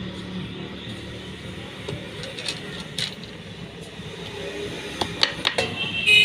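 Sharp clicks and a ringing clink of hard objects being handled, over a steady low hum. A quick cluster of clicks comes about five seconds in, and the loudest clink near the end.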